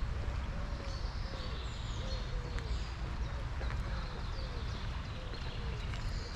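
Songbirds chirping: repeated short, falling high notes over a steady low rumble, with a few faint clicks.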